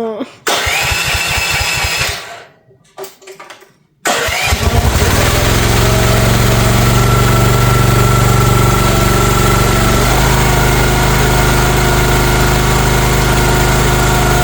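Cold start of a CFG MX15RX mini excavator's small gasoline engine on choke. The engine catches briefly and dies about two seconds in and sputters once or twice. About four seconds in it fires and settles into a steady run, its note shifting about ten seconds in.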